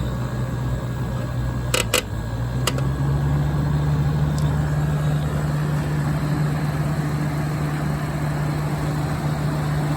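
General Electric Thinline air conditioner running on its first start-up, its compressor and fan motor humming steadily. A few sharp clicks come about two seconds in, and the hum grows a little louder and higher about a second later. The owner suspects the unit is a bit low on refrigerant charge.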